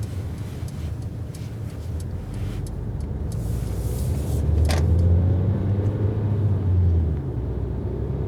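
Cabin sound of a 2019 Mercedes A-Class driving on a snowy road: a steady low rumble of engine and tyres that grows louder from about halfway through for a few seconds. A single sharp click sounds near the middle.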